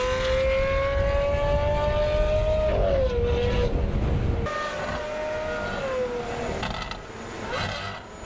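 Lamborghini Aventador V12 with an aftermarket Inconel exhaust accelerating hard: its note climbs steadily over a deep rumble, then drops at an upshift about three seconds in. A second short pull and upshift follow, and a few sharp crackles sound near the end.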